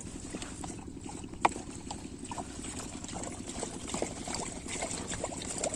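Rajkot 8 hp single-cylinder diesel engine running a water pump set with a steady, rapid beat, and water pouring and trickling from the pump. There is one sharp click about a second and a half in.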